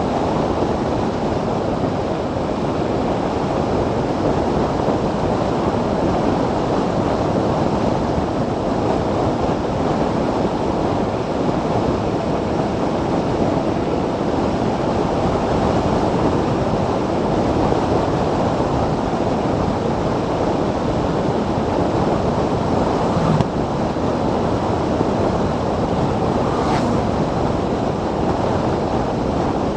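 Steady wind rush buffeting the microphone of a 2016 Zero DSR electric motorcycle on the move, with no engine note; a short knock about three-quarters of the way through.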